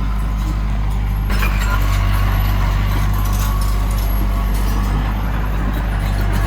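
Heavy diesel engine of earthmoving machinery running with a deep, steady hum; a little over a second in it works harder and the sound gets fuller and slightly louder.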